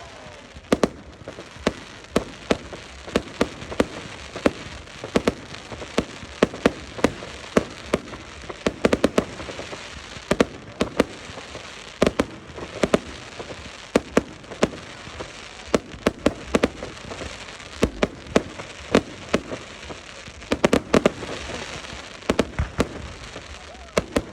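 Fireworks display: shells bursting overhead in a steady, irregular barrage of sharp bangs, often several in quick succession, with crackle between them.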